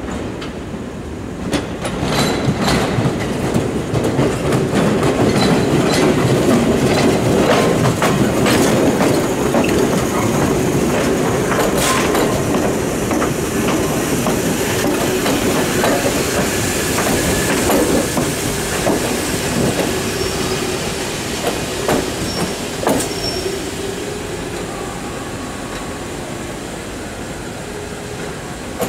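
Toyama Chiho Railway 16010 series electric train, a former Seibu Red Arrow, running slowly into the terminal platform. Its wheels clatter over the points and rail joints under a steady low rumble. The sound eases off in the second half as it slows to a stop, with a few short high squeals along the way.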